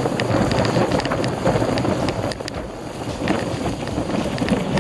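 Wind buffeting the microphone of a moving mountain bike on a dirt road, with scattered sharp clicks and rattles from the bike over the rough surface.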